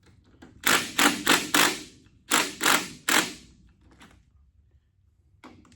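Cordless impact wrench run in seven short trigger bursts, four and then three, snugging up gearbox mounting bolts.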